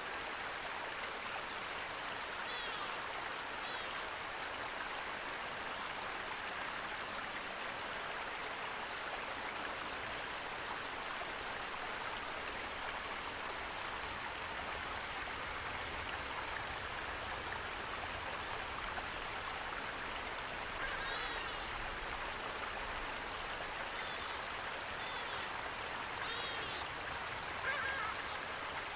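Running water, a stream or small waterfall, rushing steadily, with a few short bird chirps here and there, most of them in the last third.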